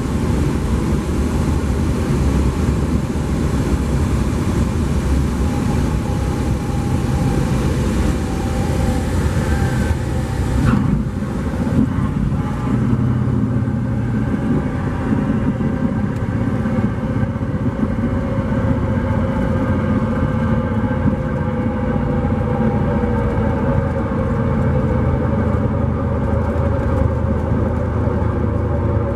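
Cessna 172P's four-cylinder Lycoming engine and propeller running steadily, with a rush of wind that drops away about eleven seconds in.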